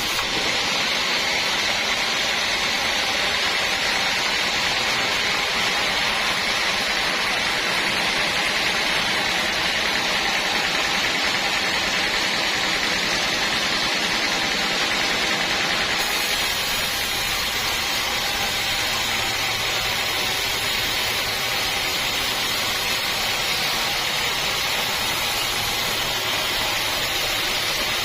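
Sawmill machinery running steadily, a continuous hissing whine with no breaks.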